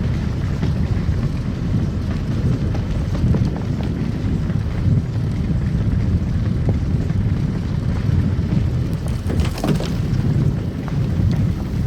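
Car driving on a snow-covered road: a steady low tyre and road rumble, with a brief crackle about nine and a half seconds in.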